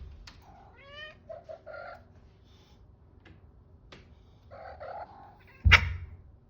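A cat meowing: a short rising meow about a second in, a few short calls just after it, and two or three more just before five seconds. A single loud thump comes near the end.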